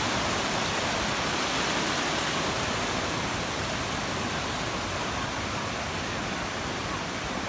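Ocean surf at the shoreline making a steady rushing noise.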